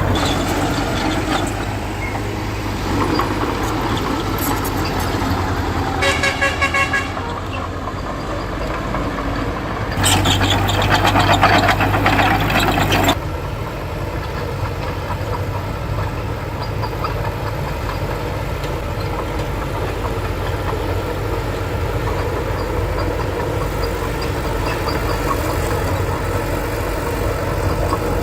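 Heavy diesel engines of earthmoving machinery running steadily, with a short horn toot about six seconds in. A louder stretch lasting about three seconds begins about ten seconds in.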